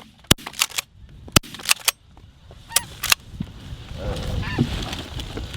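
A volley of shotgun shots, about six sharp blasts in quick succession over the first three seconds, with snow geese honking in the later part.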